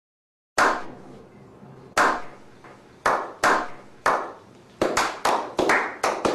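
A series of sharp, ringing percussive hits, like claps: a few spaced about a second apart, then coming faster, around three a second near the end.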